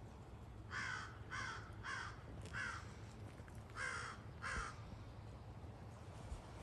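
A bird giving six short, harsh calls: a run of four, a pause, then two more.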